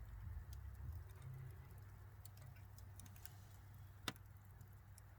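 Faint crackling of a wood bonfire: scattered sharp ticks and pops, one louder pop about four seconds in, over a low rumble that fades after the first two seconds.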